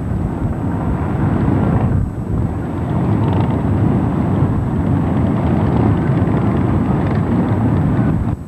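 Many motorcycle engines running together in a steady, loud rumble, with a short dip about two seconds in.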